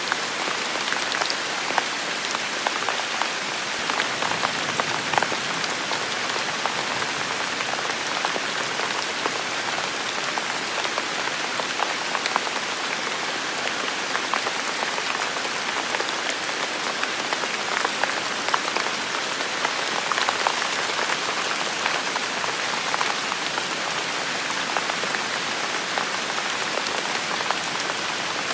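Heavy rain falling steadily: a constant hiss with many sharp individual drop hits scattered through it.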